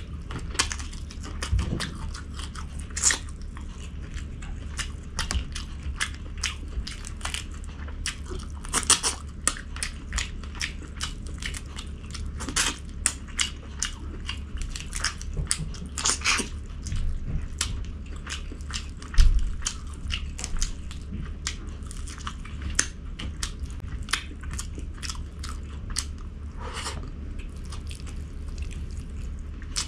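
A person eating close to the microphone: rapid wet clicks and smacks of chewing with occasional crunching bites, over a steady low hum. A single low thump about two-thirds of the way in.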